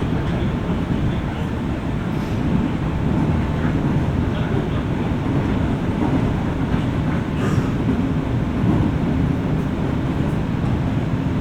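Running noise of a JR West 201-series electric train heard from inside the car above its armature-chopper equipment: a steady rumble of wheels on rail and traction equipment. A faint thin tone sits over it in the first seconds.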